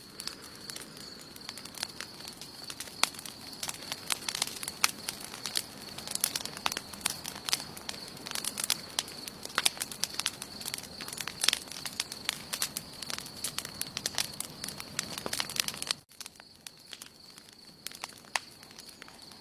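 Wood fire crackling, with many sharp pops and snaps over a faint hiss, and a steady high-pitched tone underneath. About sixteen seconds in the sound drops suddenly and the crackling thins to occasional pops.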